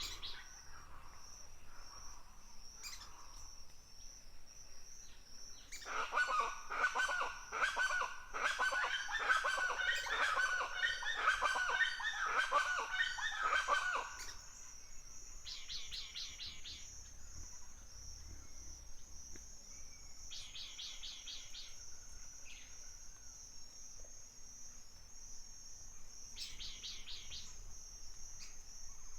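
Forest ambience. A steady high insect trill runs throughout; from about 6 to 14 seconds in, a group of birds calls noisily, many calls overlapping. Later come three short bursts of quick chirps.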